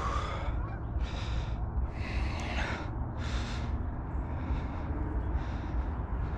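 A rider breathing hard, a hissy breath about once a second, over a steady low rumble of wind buffeting the microphone on the move.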